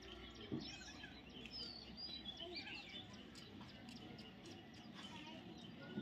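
Faint bird chirps and twitters, short rising and falling whistles scattered throughout, over a low steady background noise, with a soft bump about half a second in.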